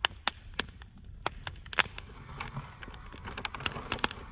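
Campfire wood crackling and popping, with sharp irregular snaps, the loudest ones near the start and a little under two seconds in.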